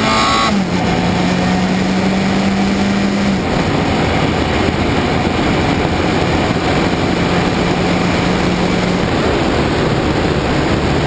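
Motorcycle engine running at a steady cruising speed, heard under heavy wind rush on the microphone. The engine note steps down slightly under a second in and drops a little lower near the end.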